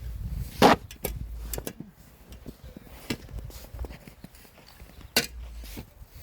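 Snow shovel scraping and knocking into snow in a few separate strokes, the loudest about a second in and another near the end, over a low rumble of wind.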